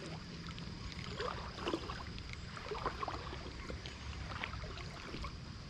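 Creek water running, with faint small splashes and gurgles.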